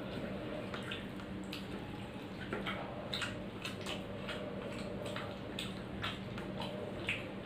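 Close eating sounds: wet smacking and clicking of chewing, with fingers mixing rice on a plate, as irregular soft clicks over a steady low hum.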